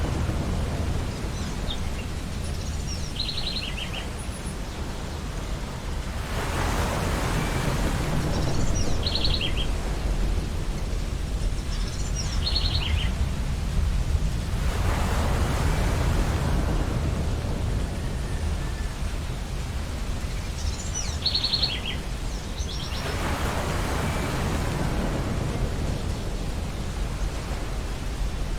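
Ocean waves washing onto a beach under a steady low surf rumble, a wave surging in about every eight seconds. Gulls call briefly several times over it.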